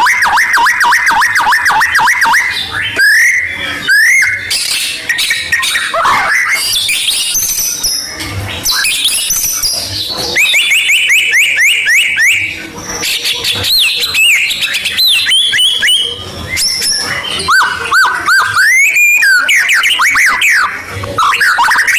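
White-rumped shama singing a long, varied, loud song: a fast run of repeated notes at first, then whistled phrases with quick rising and falling glides and trills, with short breaks between phrases.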